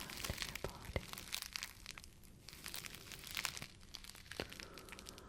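Close-up crinkling and crackling of something being handled and crumpled, an irregular stream of sharp crackles that thins out briefly about two seconds in.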